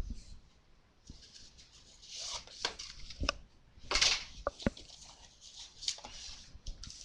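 Hands handling an opened trading card box and its pack: short cardboard and wrapper rustles with scattered clicks and taps.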